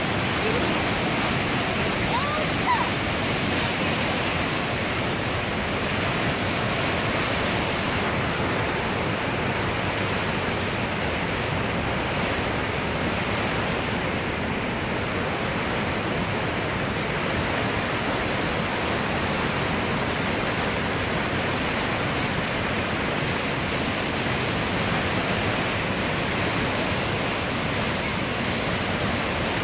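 Kamo River running high and fast in flood after heavy typhoon rain: a steady, even rush of floodwater.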